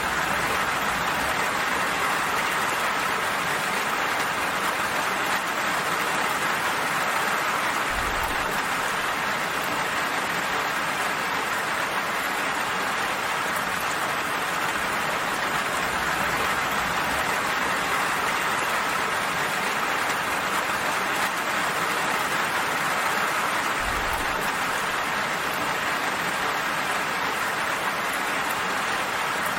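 Steady rain falling, an even hiss of many drops without a break. Two brief low bumps sound about sixteen seconds apart.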